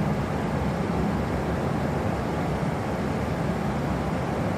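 Steady low rumble and hiss of a Tohoku Shinkansen train standing at a station platform.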